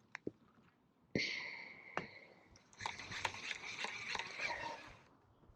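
Baitcasting reel with a flipping jig: the spool whirs as the lure is pitched out, fading as it slows, and stops with a click. A stretch of faint ticking and rattling follows as the line is worked.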